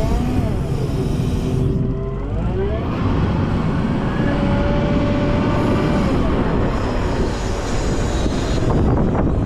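Volvo L90F wheel loader's diesel engine running under load, its pitch rising and falling several times as it revs up and eases off, with a steady low rumble underneath.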